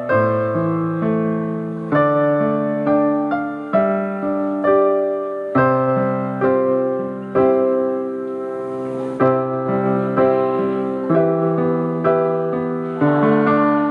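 Electric keyboard playing slow chords over a bass line, a new chord struck about once a second and fading before the next.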